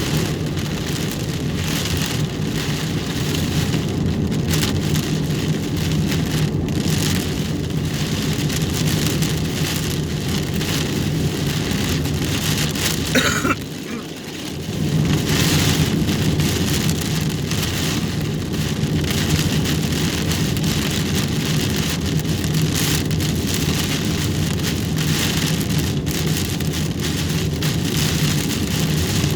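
Heavy rain pelting a moving car's roof and windshield over a steady low drone from the car. A short squeal sounds about 13 seconds in, and the rain noise drops briefly for a second or so just after.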